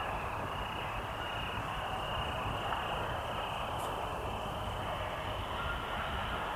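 Evening field ambience: crickets trilling in regular high-pitched pulses, over a steady low rumble of distant noise.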